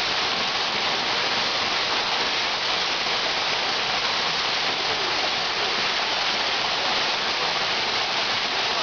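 Steady rush of falling water from a waterfall close by, an even hiss that holds level throughout.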